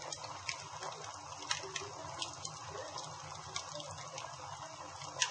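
Campfire burning: a steady hiss with scattered crackles and pops, the loudest pop just before the end.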